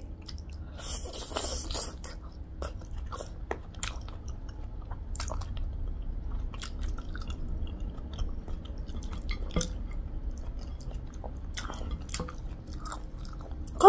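Close-up mouth sounds of a person eating pickled pork trotter with her fingers: chewing with irregular wet smacks and small crunchy clicks.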